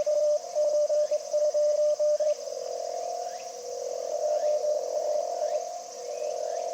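Morse code (CW) tone from an amateur HF transceiver, a single pitch keyed on and off in dots and dashes for about two seconds, then giving way to a steady hiss of band noise through the radio's narrow CW filter.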